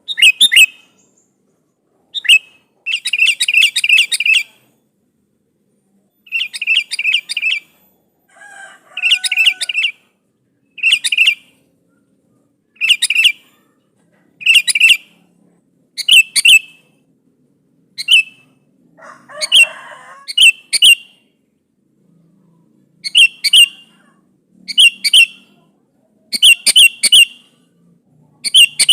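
Sooty-headed bulbul (kutilang) calling to a rival: short, bright chattering phrases repeated every second or two, some in quick runs of several notes, with gaps of silence between.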